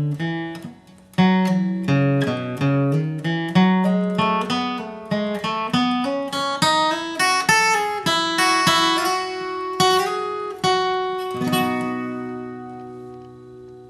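Acoustic guitar flatpicking a single-note bluegrass melody slowly, note by note, ending on notes left to ring and fade out.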